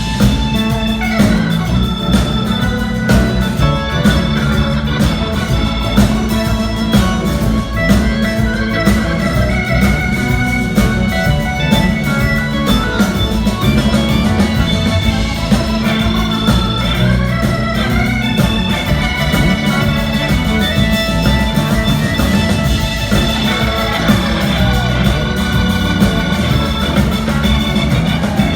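Live rock band playing an instrumental break led by an organ solo over bass and drums.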